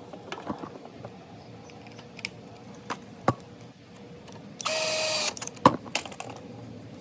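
Tools and metal parts clicking and knocking during reassembly of a lawn mower engine's air filter box. A little past halfway there is a brief, steady, high-pitched whine lasting under a second, the loudest sound here.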